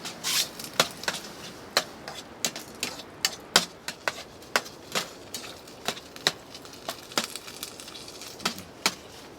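Hard, icy snow pelting the tent, heard from inside as irregular sharp ticks, almost like rain.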